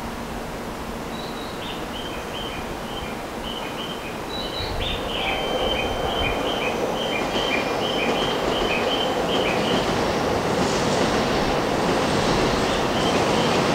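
Shinkansen train moving along the station platform, its rushing rumble growing steadily louder. A run of short high chirping tones at two or three pitches sounds over it for most of the first ten seconds.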